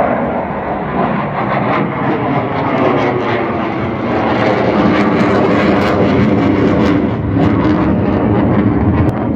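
Jet aircraft flying past, a loud engine noise that swells about halfway through and stays loud.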